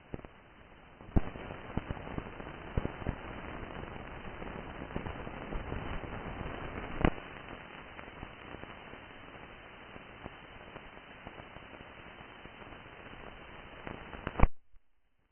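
Hiss and crackle of an old recording, with scattered sharp clicks and pops. It grows louder about a second in, then cuts off with a loud click near the end.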